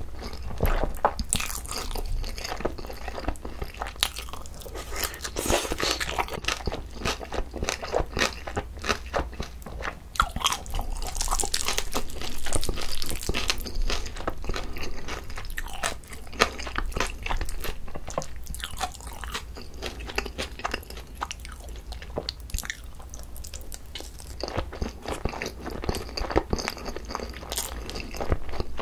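Close-miked chewing of mouthfuls of seasoned chicken, rice and kimchi: continuous crunching with many small wet clicks.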